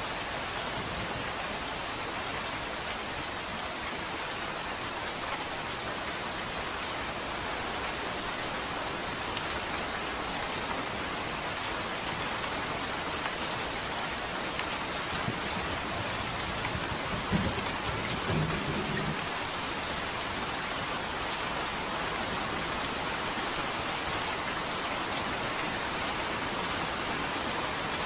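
Steady, even rainfall. A little past halfway through comes a short, low rumble of thunder, the loudest moment.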